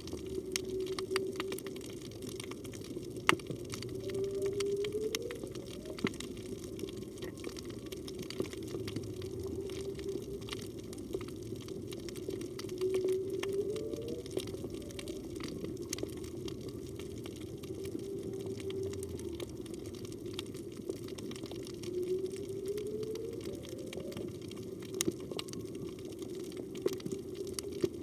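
Whale song heard underwater, which the uploader takes for a humpback whale: a long held low note that rises in a short upsweep three times, about nine seconds apart, over a constant crackle of scattered clicks.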